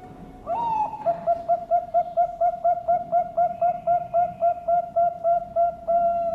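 Perkutut bangkok (zebra dove) cooing: a rising opening note, then a fast even run of short coos, about six a second, closing on a longer held note.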